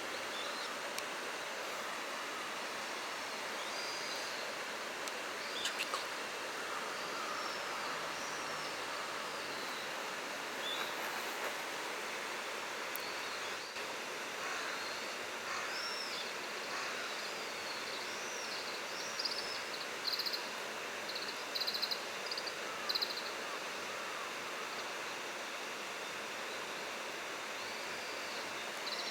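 Steady outdoor hiss with short, high bird calls scattered through it, and a run of louder, quick chirps about two-thirds of the way in.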